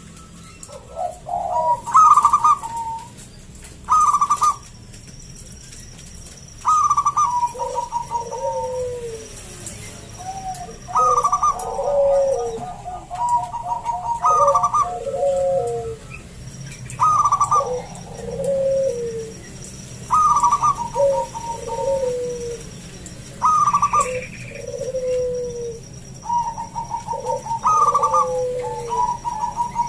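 Zebra dove (perkutut) cooing over and over. Each phrase is a quick run of short notes, then lower, drawn-out falling coos, repeating about every three seconds.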